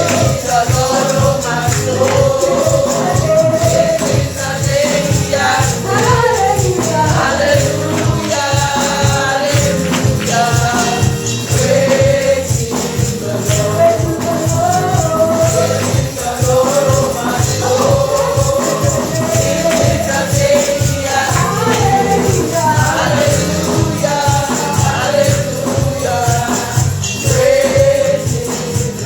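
Gospel worship music: a choir and congregation singing over a steady beat with tambourine.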